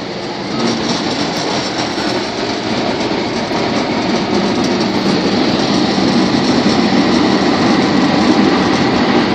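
PDQ ProTouch soft-touch automatic car wash running: a steady rushing noise of the machine at work, growing slowly louder.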